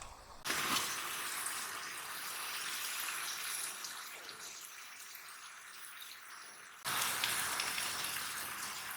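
Kongbul (bean sprouts and pork belly stir-fry) sizzling in a pan, a steady hiss that cuts in abruptly about half a second in and steps up again near the end.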